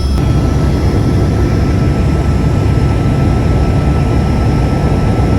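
Twin Squirrel twin-turbine helicopter running with a steady, loud noise.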